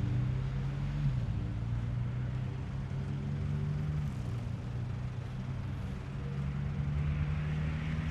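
A vehicle engine running with a low hum; its pitch drops about a second in and rises again near the end.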